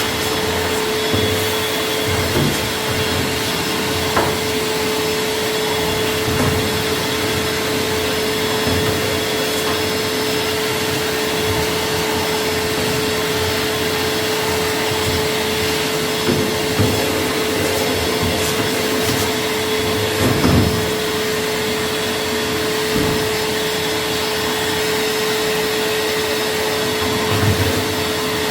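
A motor-driven machine with a strong air rush running steadily, with a steady hum and a few scattered knocks.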